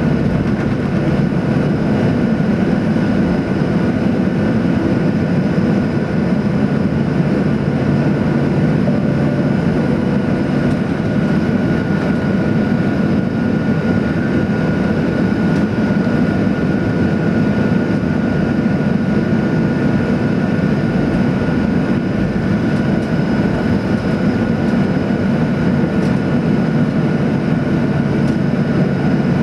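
Cabin noise inside a Boeing 737-800: the CFM56 jet engines running steadily at low power, with a constant rumble under a steady whine and hum and no rise in level, typical of taxiing.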